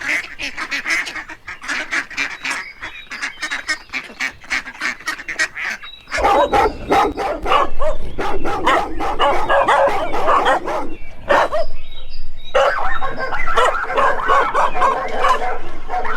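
A flock of domestic waterfowl calling in a rapid, overlapping chorus of honks. The calls grow denser and louder about six seconds in, with a brief lull a few seconds later.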